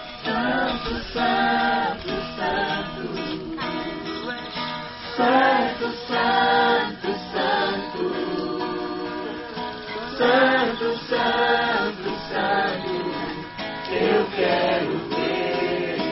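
Singing to a strummed acoustic guitar.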